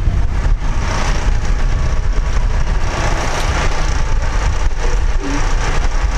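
A vehicle engine running steadily, a low rumble with a rough hiss above it.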